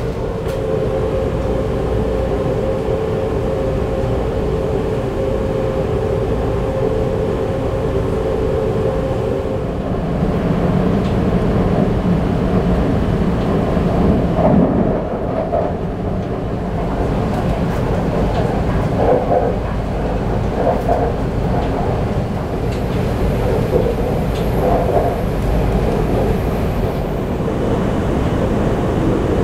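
Taoyuan Airport MRT express train heard from inside the passenger car while it runs along the elevated track: a continuous rumble and rail noise. A steady hum stops about ten seconds in, after which shorter whines rise and fall.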